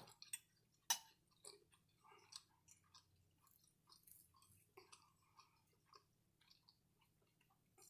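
Faint close-miked sounds of a person chewing food: scattered small clicks and smacks of the mouth, with a sharper click about a second in.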